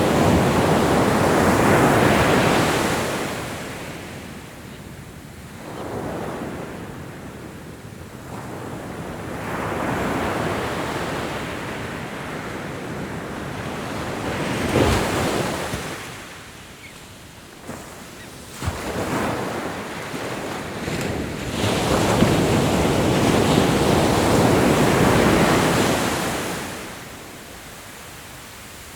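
Ocean waves breaking and washing up the shore, swelling and fading in several surges, with wind buffeting the microphone.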